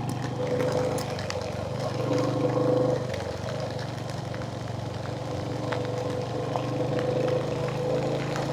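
Royal Enfield Hunter 350's single-cylinder engine running steadily under way, its note shifting slightly in pitch a couple of times with throttle.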